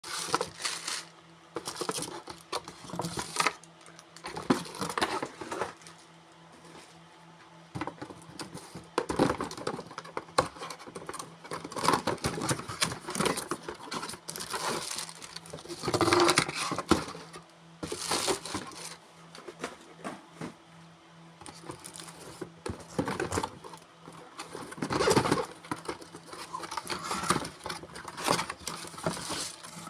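Irregular rustling, crinkling and light knocks of handling, with a faint steady low hum underneath.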